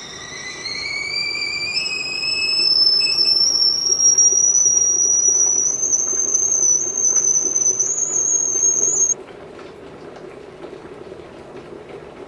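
Stovetop tea kettle whistling at the boil: a loud high whistle that rises slowly in pitch and cuts off suddenly about nine seconds in. A steady rumble of water heating continues underneath.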